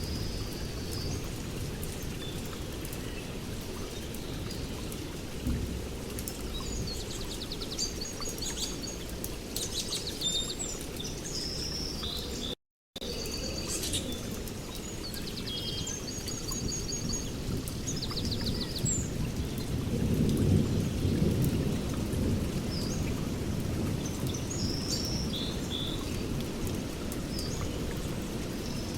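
Birds chirping and trilling in short, scattered phrases over a steady low rushing background, which swells into a deeper rumble about two-thirds of the way through. The sound cuts out completely for a split second near the middle.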